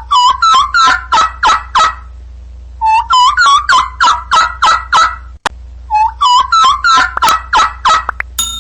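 A bird's rapid rattling call, heard three times, each a run of about eight quick notes, over a steady low hum.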